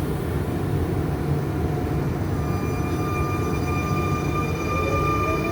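RER C electric suburban train, a Z 20900 unit, running with a steady low rumble. A steady electric whine comes in about two seconds in, and a rising whine joins it near the end.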